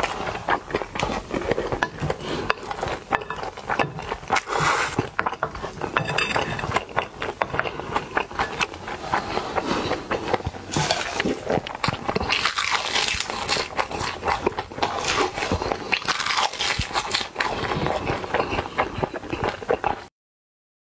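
Close-miked mukbang eating: a mouthful of Korean mixed rice being chewed with dense, irregular crackling clicks, along with a wooden spoon scraping a glass bowl. It stops abruptly near the end.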